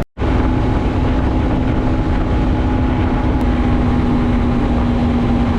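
Yamaha MT-03 motorcycle engine running at a steady cruising speed on the highway, holding one even pitch, under heavy wind rumble on the bike-mounted camera's microphone.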